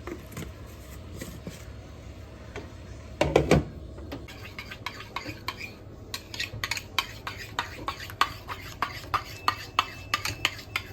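Kitchen utensil clinking against a dish in a quick run of clinks, about two or three a second, with a louder clunk about three seconds in.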